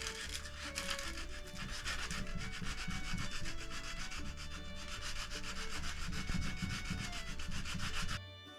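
Hand sanding of wood, likely the dowel ends in the chair, with rapid back-and-forth scratchy strokes that stop abruptly near the end. Background music plays underneath.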